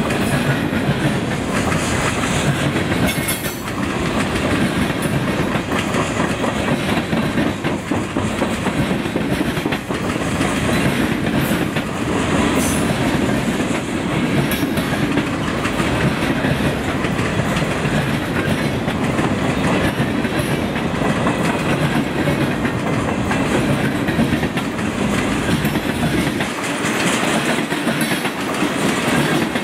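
Freight cars of a passing freight train, boxcars and centerbeam lumber flatcars, rolling by close to the track. Their wheels make a steady loud rumble on the rails, with repeated clicking.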